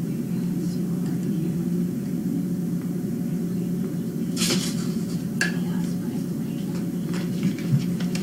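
Paper rustling as a greeting card is drawn from its envelope and opened: a couple of crisp crackles about halfway through and a few small ticks near the end, over a steady low hum.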